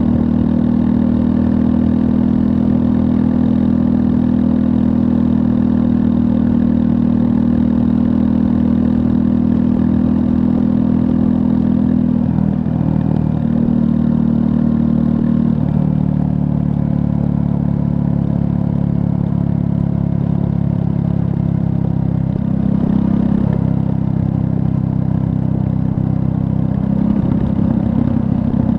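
2024 Triumph Scrambler 400 X's 398 cc liquid-cooled single-cylinder engine running under way. Its note holds steady for long stretches and shifts pitch a few times, about halfway through and again near the end.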